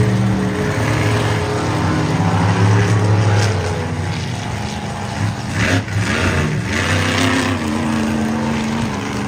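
Monster truck engines, supercharged big-block V8s, running loud and revving, with a dip and rise in pitch about six seconds in.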